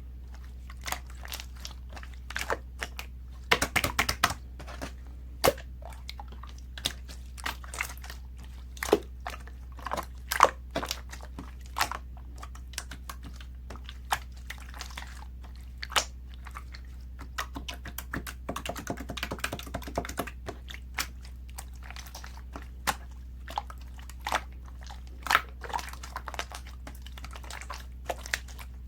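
Irregular sharp crunches and clicks, some coming in short clusters, over a steady low hum.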